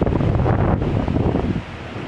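Strong storm wind gusting hard against the microphone in low, rumbling buffets, easing off about a second and a half in.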